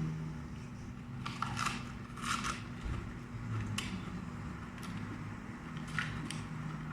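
Crunching and chewing of raw lettuce and broccoli close to the microphone, a few crisp crunches at uneven intervals.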